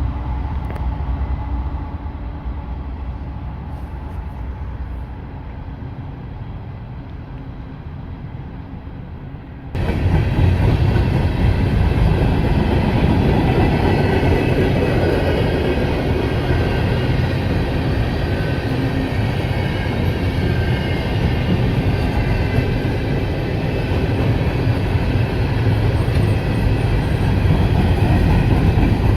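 A loaded coal train rolling past: a lower steady rumble at first, then about ten seconds in an abrupt jump to the loud, steady rumble and clatter of hopper cars running over the rails, with a faint high wheel squeal.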